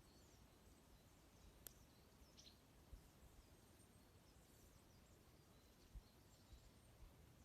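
Faint, scattered chirps of small birds with a single sharp crackle from a wood fire about two seconds in, and a few soft low thumps.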